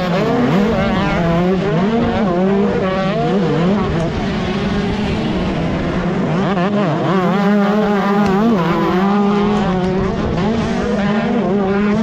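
125cc two-stroke motocross bike engine at race pace, its pitch rising and falling over and over as the throttle is opened and shut and the gears change.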